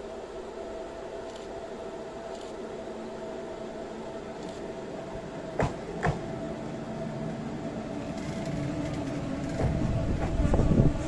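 Train drawing near: a steady hum that swells into a louder low rumble near the end, with two sharp clicks about halfway through.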